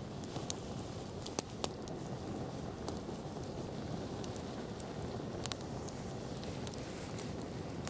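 Wood campfire crackling: sharp, irregular pops over a steady low rush of burning.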